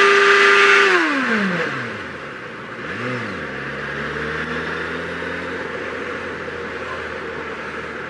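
Sportsbike engine held at high revs, then rolling off with the pitch falling about a second in, a brief blip of revs about three seconds in, then running steadily at lower revs, with wind noise on the microphone.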